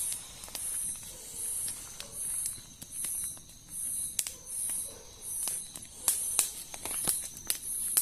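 Small campfire crackling with irregular sharp pops, while an insect chirps high and regularly, about once every three-quarters of a second.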